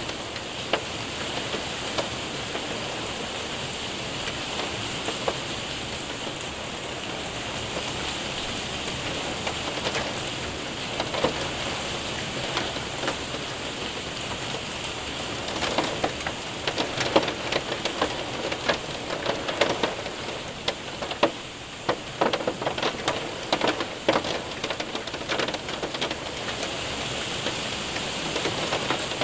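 Rain and hail hitting a window and roof: a steady hiss of rain with sharp ticks of hailstones, the ticks coming thicker about halfway through.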